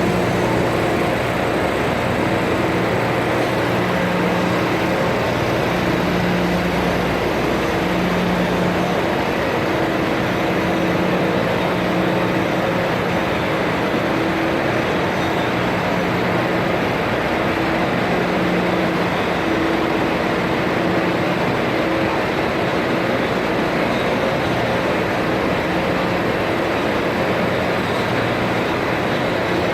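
Steady industrial machinery noise with a low hum that fades in and out every second or two.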